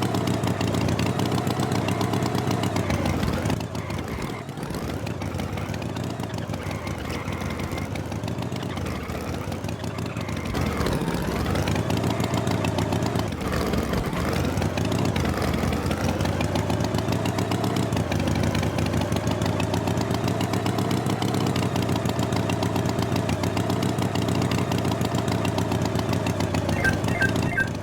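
Tractor engine sound effect running steadily, its pitch wavering up and down as it revs, a little quieter for a few seconds near the start.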